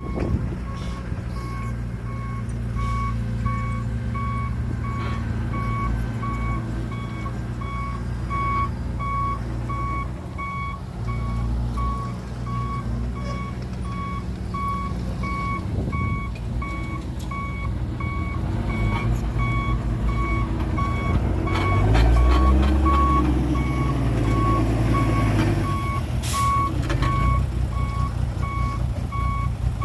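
Reversing alarm on a heavy diesel vehicle beeping steadily at about two beeps a second, over the low running of its diesel engine, which revs up and back down about two-thirds of the way through.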